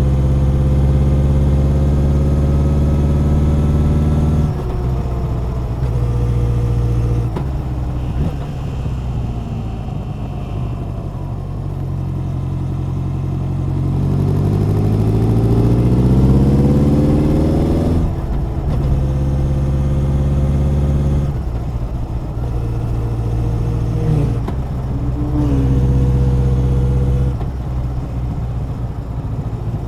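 Honda CB1100's air-cooled inline-four engine and exhaust under way, its note changing at several gear changes. In the middle the revs climb steadily for about four seconds before the next shift.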